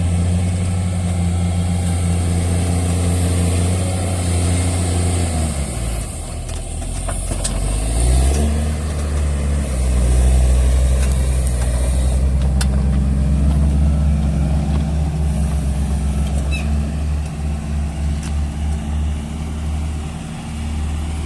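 Heavy vehicle engine running steadily. It slows down about five seconds in, speeds back up a couple of seconds later and keeps running, with a pulsing rise and fall near the end.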